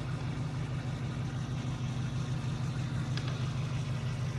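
Pickup truck engine running steadily with a low, even hum, heard from inside the cab. There is a faint click about three seconds in.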